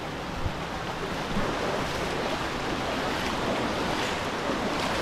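Steady rushing of river water, growing slightly louder.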